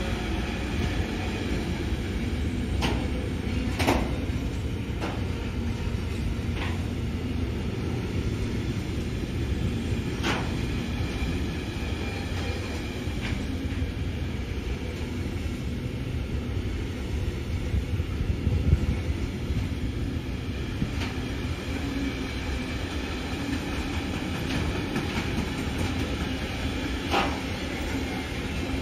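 A train rolling along the rails: a steady low rumble of wheels on track with scattered sharp clicks and knocks.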